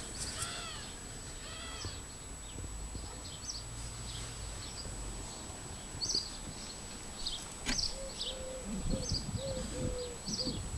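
Animal calls: two short arched calls near the start, then short high chirps repeating every half second or so, and a wavering call near the end. A single sharp knock comes about two thirds of the way through.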